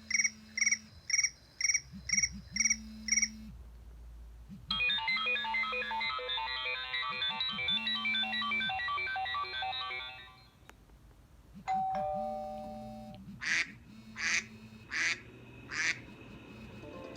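iPhone 5s ringtones and alert tones previewed one after another. First a run of about eight quick beeps, then a fast repeating melody for about five seconds, then two falling tones and four short bursts.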